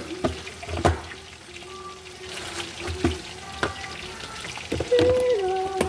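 Water running from a kitchen tap into a sink, with a few sharp knocks and clinks of things being handled.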